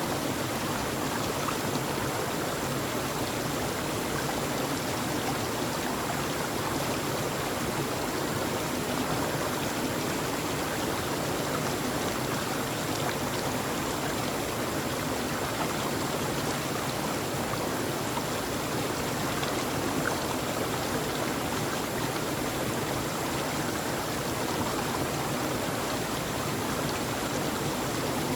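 Steady rushing of a stream, an even water noise with no change in level.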